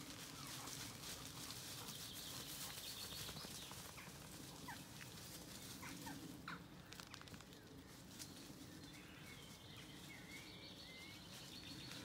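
Faint birdsong: scattered short chirps and whistled notes over a low background hiss, with some light rustling clicks.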